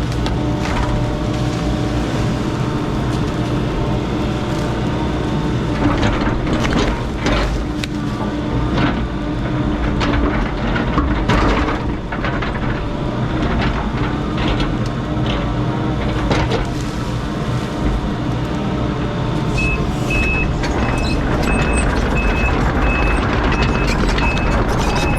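Heavy equipment engine running steadily while the machine works, with scattered knocks and cracks of wood and metal as it handles a felled tree. From about two-thirds of the way in, the machine's backup alarm beeps steadily as it reverses.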